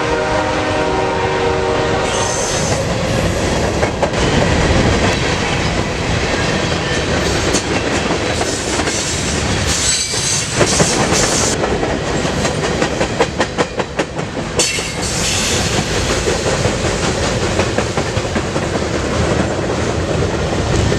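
Manifest freight train passing close by. The locomotive horn sounds for about the first two seconds, then the cars roll past with the wheels clicking rhythmically over the rail joints. There are short bursts of high-pitched wheel squeal about ten and fifteen seconds in.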